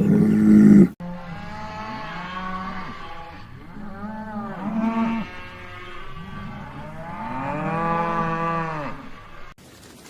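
Cattle mooing: a loud low moo cut off about a second in, then a string of overlapping moos from several cattle that rise and fall in pitch, the longest near the end, stopping abruptly.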